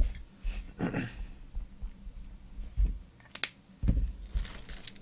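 Football trading cards being handled and flipped through on a table: several short, soft taps and thumps, about a second apart.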